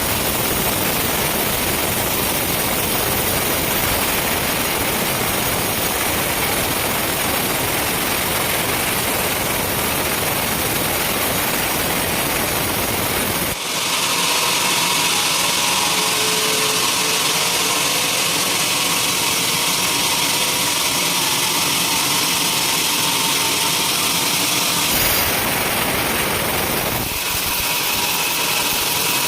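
Sawmill machinery running with a steady, loud mechanical noise, its character changing abruptly about a third of the way in and again near the end.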